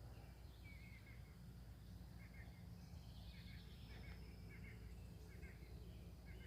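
Quiet outdoor ambience with a steady low background hum, and a bird giving about seven faint short calls spread through it.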